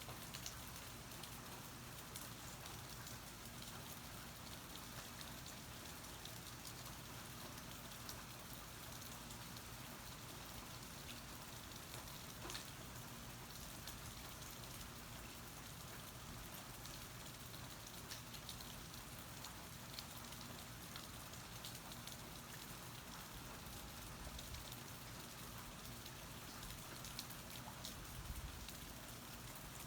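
Steady rain falling, with scattered sharper drops ticking through the even sound of the downpour.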